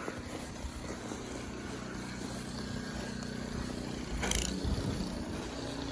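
Car driving on a snow-covered road, heard from inside the cabin: steady engine hum and tyre noise, with a brief whoosh about four seconds in.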